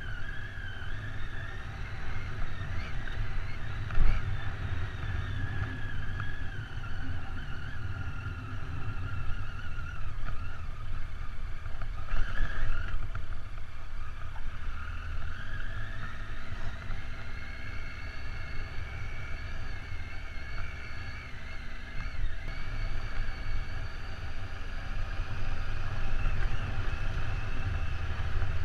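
Triumph Tiger adventure motorcycle engine running under way on a rough grass and dirt track, heard from a helmet camera over a steady low rumble. The engine note rises around the middle as the throttle opens, and there is a sharp knock about four seconds in.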